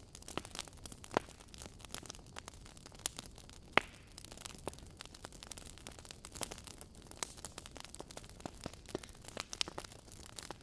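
Wood fire in a fireplace crackling: irregular sharp pops and snaps from the burning logs over a soft steady hiss, with the loudest pops about a second in and near four seconds in.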